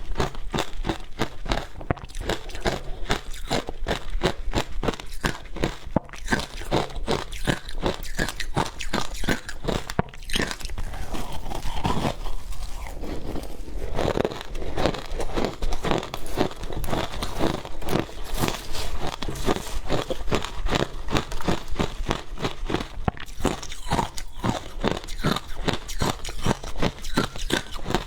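Close-miked crunching of matcha ice being bitten and chewed, with rapid, sharp crunches going on continuously and a brief softer patch of chewing about midway.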